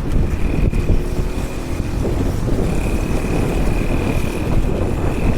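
Wind buffeting the microphone over the rumble of skateboard wheels rolling fast downhill on asphalt, with a steady high whine through most of it that breaks off briefly about two seconds in.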